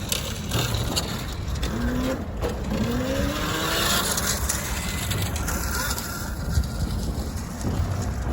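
Wind rumbling on the microphone and road noise while riding a bicycle, steady throughout, with a faint rising tone about two to three seconds in.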